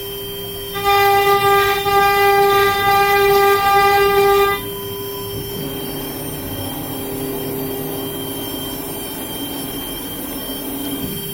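CNC router spindle whining at one steady high pitch. About a second in it grows much louder and harsher for roughly four seconds, then drops back, and a lower steady hum joins about halfway through.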